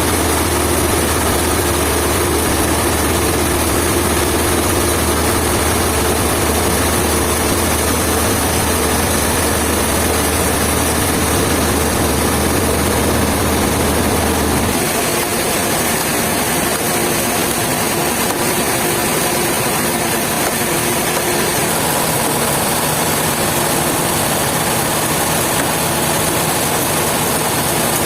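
Sawmill machinery running steadily with a loud, even engine-like drone. About halfway through, the low rumble drops out abruptly while the higher machine noise continues.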